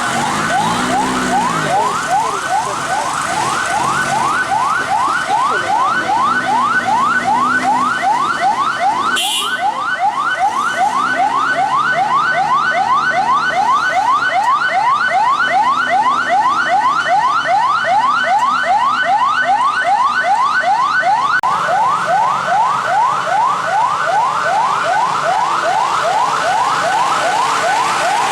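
Electronic vehicle warning siren sounding in rapid rising sweeps, about three a second, held without a break. Faint voices murmur underneath, and there is a single click about nine seconds in.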